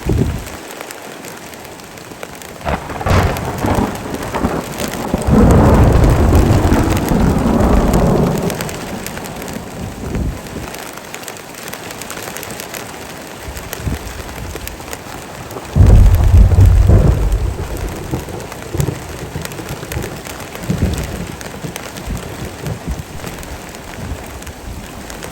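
Heavy rain falling steadily, with thunder: a long loud roll about five seconds in and another, the loudest, about sixteen seconds in, each lasting two to three seconds.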